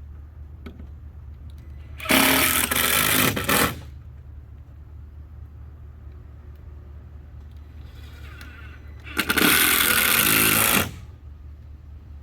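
Power drill driving screws into wooden fence pickets, two runs of nearly two seconds each with a pause between.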